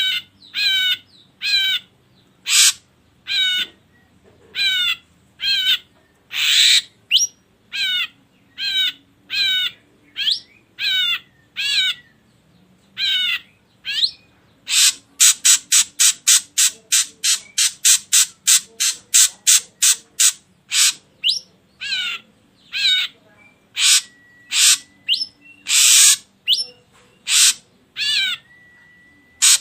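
Ashy drongo calling: a long series of quick, harsh, wavering notes, about one to two a second, that change into a fast run of short notes about halfway through, with a thin steady whistle twice near the end.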